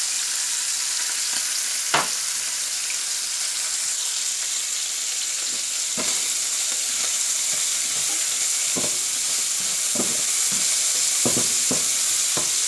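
Diced bacon and onion sizzling in a frying pan, a steady high hiss, with short scrapes and taps of a slotted spatula stirring against the pan, coming more often in the last few seconds.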